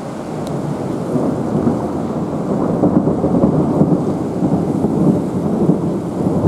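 Thunder rumbling after a lightning flash: a low roll that builds over the first few seconds, peaks in the middle and keeps rolling, over steady rain.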